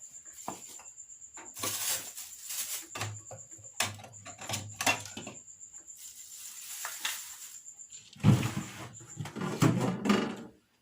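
Plastic food bags and containers being handled while a refrigerator is emptied: scattered rustles, light knocks and clicks, with a louder burst of crinkling and bumping from about eight seconds in.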